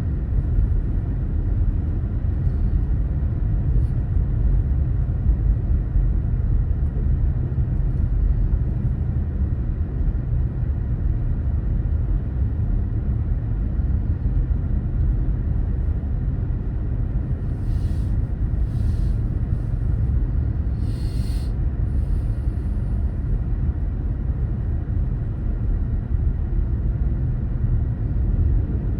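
Steady low rumble of a car driving, from its road and engine noise. A few brief hisses come about two-thirds of the way through.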